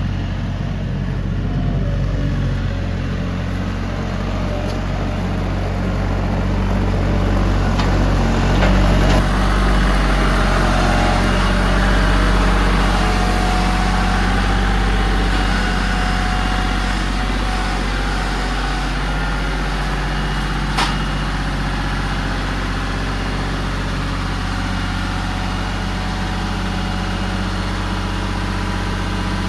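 Tractor engine idling steadily, with one sharp click about two-thirds of the way through.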